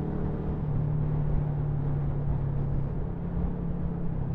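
A Yamaha MT-125's single-cylinder engine, fitted with a Scorpion full-system exhaust, running steadily at an even cruising speed, with wind and road rumble.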